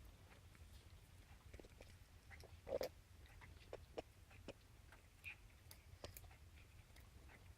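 A cat chewing corn: soft, irregular crunches and clicks, with one louder sound about three seconds in.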